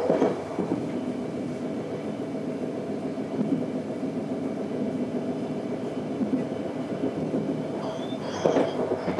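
Passenger-cabin sound of an Arriva Stadler GTW diesel multiple unit running along the line: a steady rumble of wheels on rail and the diesel engine, with a few sharp knocks near the start and near the end, and a brief high squeal near the end.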